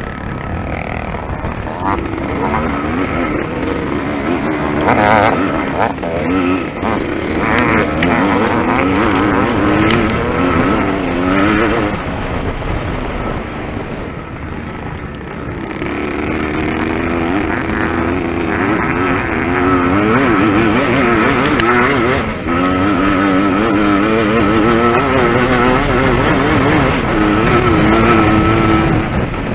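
Motocross bike engine under racing load, revving up and down again and again as the rider works the throttle along the track, heard on board from a helmet camera.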